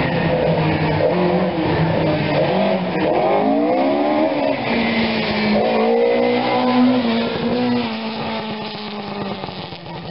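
Historic rally car's engine revving hard as it is driven around a barrel marker: the pitch climbs, drops and climbs again, then holds steady and grows quieter near the end.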